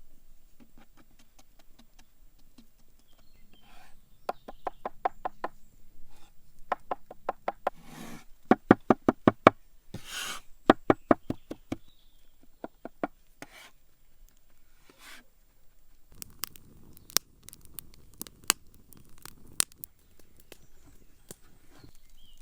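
Quick runs of light, evenly spaced knocks, about seven a second, in bursts of a second or two with short pauses, from hand work with a kitchen utensil while making fresh pasta dough. Near the end only a few scattered sharp clicks over a soft rustle.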